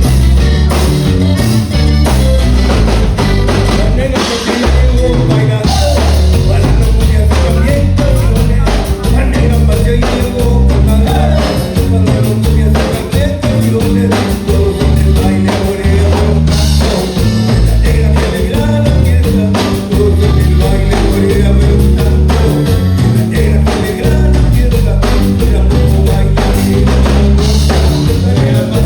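Live band playing loud dance music, with drum kit and a heavy bass line.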